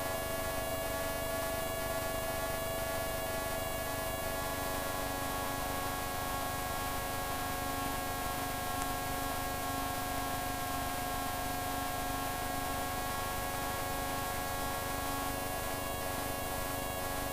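Steady drone of a Merlin PSA microlight's engine and propeller in cruise, heard through the cockpit intercom as a constant hum with several fixed tones and a hiss of static.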